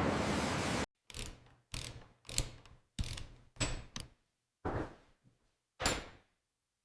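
Heavy metal parts clanking into place: a series of separate clunks about a second apart, each dying away quickly, some with a brief metallic ring. A steady rushing noise cuts off just under a second in, before the clanks begin.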